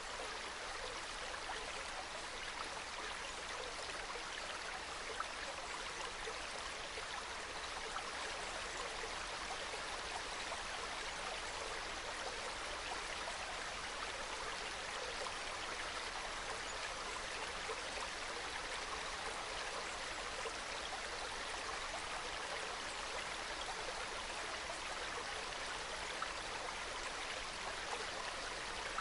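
A small mountain stream trickling and babbling over rocks: a steady, soft sound of running water.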